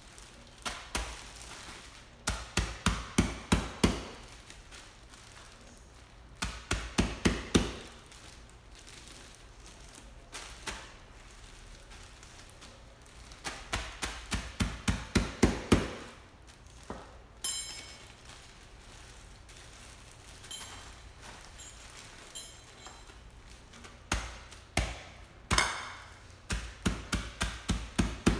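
Pretzels in a bag being pounded to crumbs: runs of rapid blows, about five a second, each run lasting one to three seconds with pauses between.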